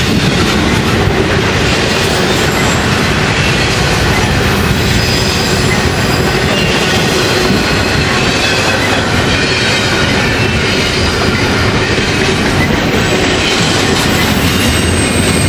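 A train passing on the rails: a loud, steady rumble of wheels on track, with faint high ringing tones over it.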